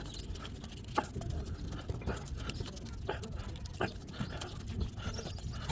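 Digging a small hole in soil: a few separate scrapes and light knocks, spaced irregularly.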